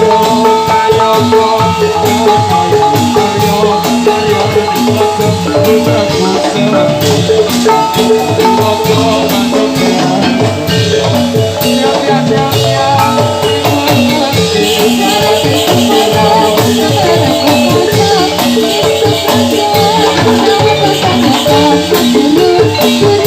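Javanese gamelan music accompanying a jathilan dance: struck metallophone melodies over drums, with a rattling shaken percussion, in a steady repeating pattern.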